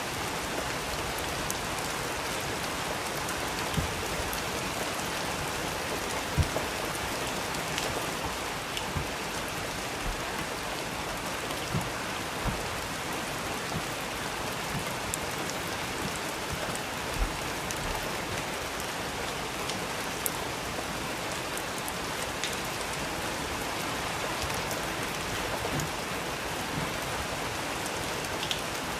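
Steady rain, an even hiss with scattered sharper drop-like taps.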